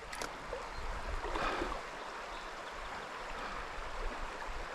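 Stream water running steadily, an even rushing noise, with a couple of faint clicks right at the start.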